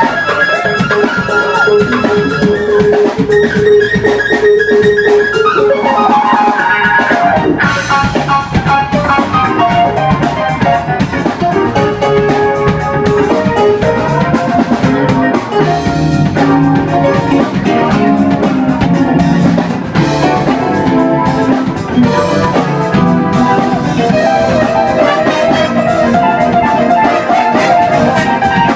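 Live band playing an instrumental funk-blues jam, with drum kit and guitar under long held melody notes.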